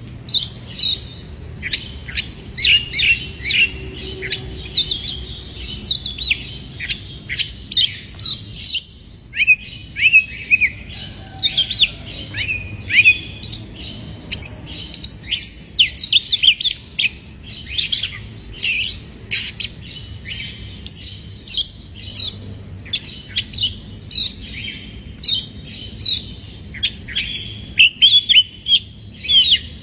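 Oriental magpie-robin (kacer) calling in an agitated, aroused state: a rapid, continuous string of short whistled chirps and sharp notes, with a brief pause about nine seconds in.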